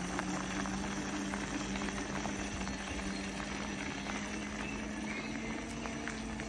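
Kids' electric motorbike running at a steady speed: an even motor hum over a constant rushing noise, with a few small clicks.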